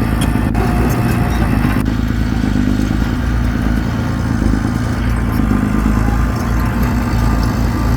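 Heavy earthmoving machine's diesel engine running steadily, with light metallic clatter during the first couple of seconds.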